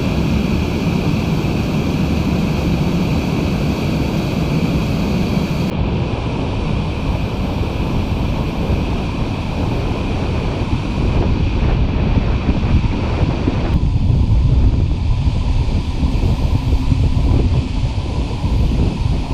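Steady rush of cascading waterfall water, with wind noise on the microphone adding a low rumble. The sound changes abruptly twice.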